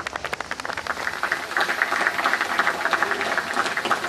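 Crowd applauding: scattered claps that quickly build into dense, steady clapping.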